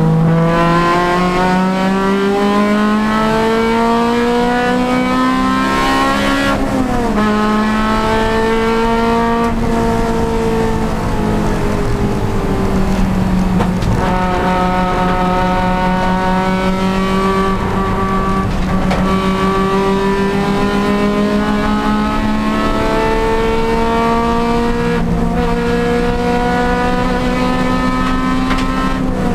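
Honda Civic Si race car's engine under hard acceleration, heard on board: the pitch climbs with the revs, drops sharply about six seconds in at a gear change, and rises again. Through the middle it eases off and holds fairly steady, then climbs once more near the end.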